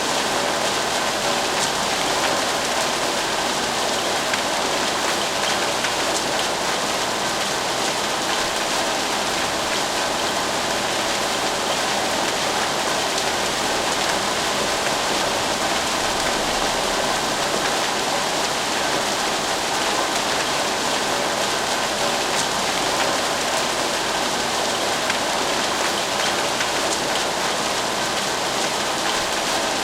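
Steady, dense rainfall: an even hiss of many drops with faint scattered individual drop ticks.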